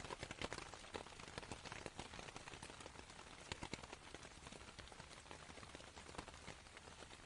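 Rain falling on canvas: a steady hiss with many small, separate drop taps, softly played.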